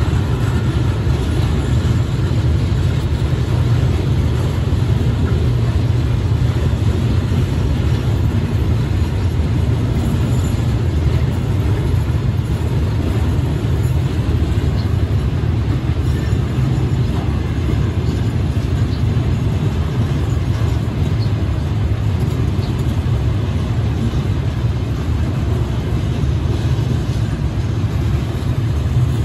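Empty flatbed freight wagons rolling slowly past on the track: a steady low rumble of wheels on rail.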